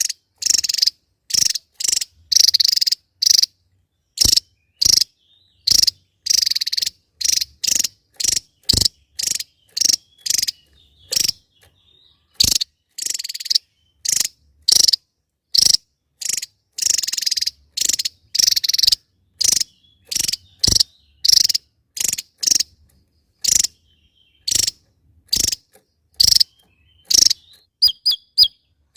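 Javan tesia calling in a long series of short, harsh, buzzy notes, a little more than one a second, high-pitched. Near the end the notes turn into quicker, sharper chirps.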